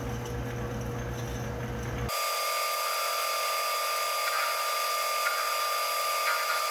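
Metal lathe running: a low steady motor hum for about two seconds, then an abrupt change to a steady high-pitched whine with hiss.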